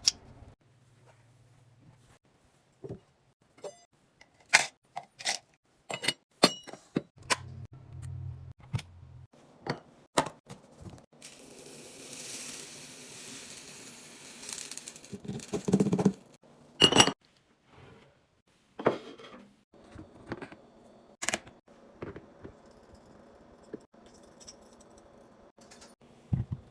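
Food containers, jars and kitchenware being handled and set down while a fridge is stocked: scattered clinks, clicks and knocks, with a steady hiss lasting about four seconds near the middle and two louder knocks shortly after.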